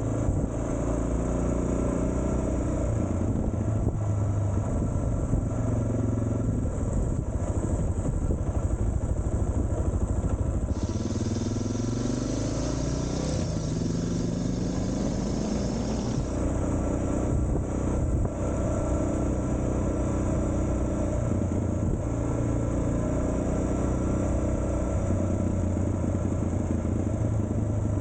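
Suzuki DR650's single-cylinder four-stroke engine running under way, its note rising and dropping repeatedly with throttle and gear changes, with a stretch of hiss in the middle.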